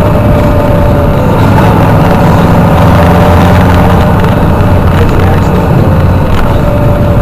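Motorcycle engines running steadily and loudly, with a low, continuous sound.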